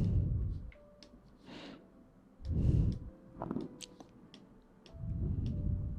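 Close-microphone ASMR trigger sounds: three muffled, low bursts about two and a half seconds apart, with small sharp clicks between them.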